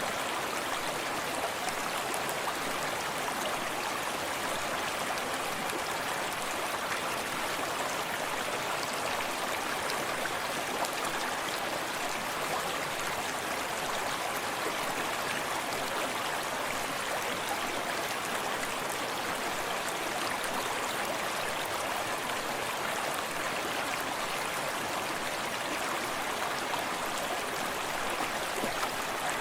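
A forest stream running steadily, water babbling over stones, with fine splashes and drips throughout.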